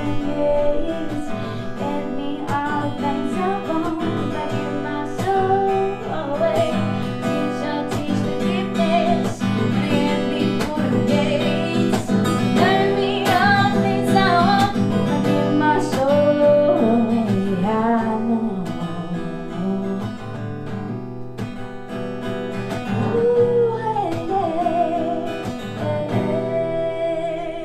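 Acoustic guitar strummed with a voice singing over it, a song played live. Near the end the singer holds a long note with vibrato as the song closes.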